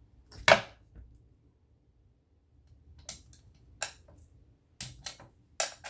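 Hard clicks and knocks from handling a metal sewing machine and its parts. There is one loud knock about half a second in, then a short lull, then scattered sharper clicks and taps toward the end.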